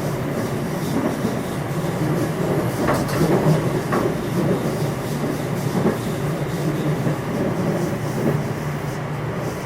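JR West 227 series electric train running, heard from inside the motor car: a steady rumble of wheels on rail, with a few sharp knocks as the wheels cross rail joints.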